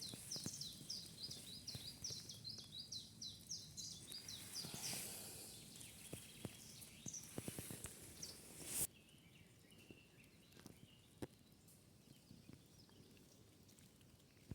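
A small bird singing a fast run of short high notes, about five a second, for the first four seconds, then only scattered chirps over faint outdoor background hiss. The hiss drops suddenly about nine seconds in.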